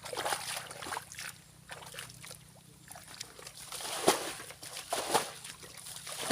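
Shallow muddy water sloshing and splashing as someone wades and works by hand, with irregular splashes, the sharpest about four and five seconds in.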